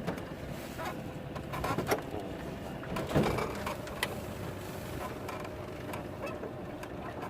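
Boat's engine running steadily, with a few short knocks and clatters on board.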